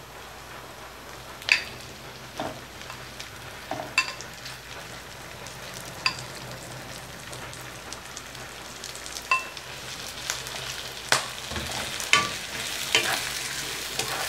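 Chopped onions and garlic frying in oil in a wok, a steady sizzle that grows louder in the last few seconds as raw chicken livers and gizzards go into the pan and are stirred with a wooden spatula. A few sharp, ringing clinks are heard along the way.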